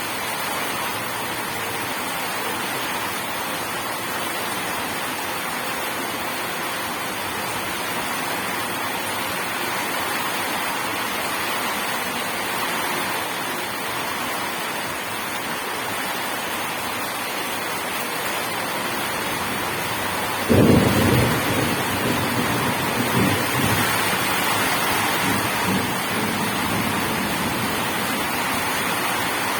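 Steady rain falling throughout. About two-thirds of the way in, a sudden clap of thunder breaks in and rumbles on for several seconds before fading back under the rain.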